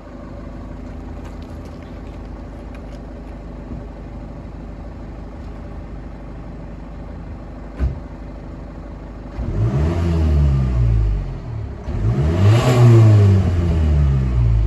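Peugeot RCZ's 2.0 HDi four-cylinder turbodiesel, remapped to stage 2 with the particulate filter, catalyst and EGR removed, idling through its original exhaust, with a short thump about eight seconds in. It is then revved twice, the pitch rising and falling each time, the second rev the louder.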